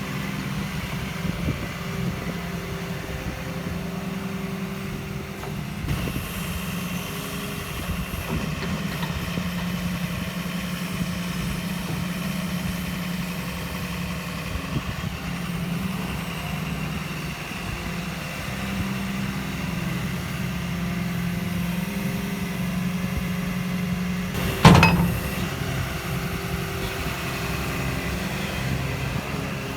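Diesel engine of a Hyundai HW140 wheeled excavator running steadily at idle, with a single sharp knock near the end.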